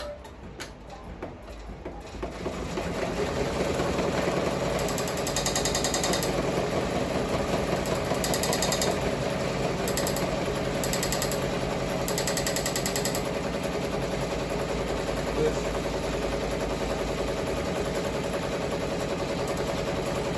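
Ricoma MT-1501 embroidery machine stitching at speed, starting up about two seconds in and running on steadily with a rapid needle clatter. A higher hiss comes and goes several times in the middle.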